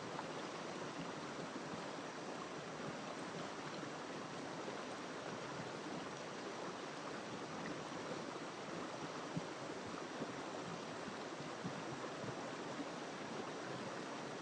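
River water flowing over rocks in a steady rush, with a few faint splashes in the second half.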